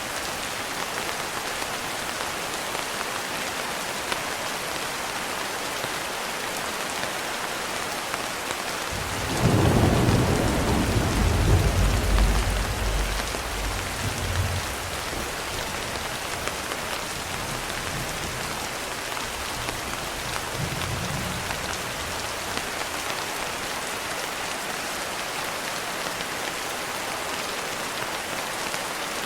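Steady rain hissing throughout. About nine seconds in, a roll of thunder rumbles for several seconds and fades, and a fainter rumble follows some seconds later.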